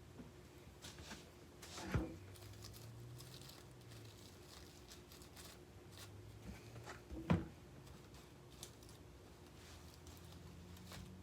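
Faint handling of craft materials on a work surface, with two sharp knocks about two seconds in and again a little past seven seconds, the second the louder.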